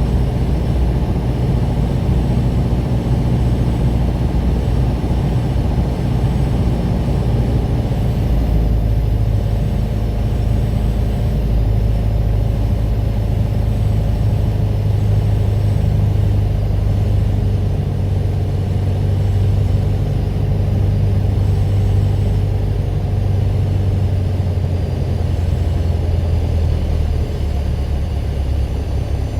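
Single-engine light aircraft's piston engine and propeller running with a steady drone; its note shifts about eight seconds in.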